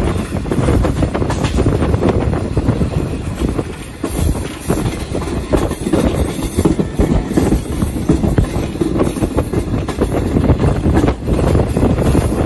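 Tezgam Express passenger train running along the track, heard from a coach: wheels clattering on the rails and the coaches rattling, with a brief dip about four seconds in.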